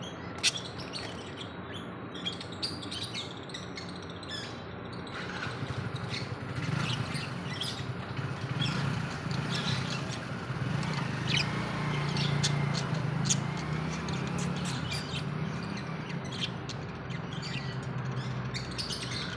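Pet lovebirds chirping and twittering, many short high calls close together, over a low background hum.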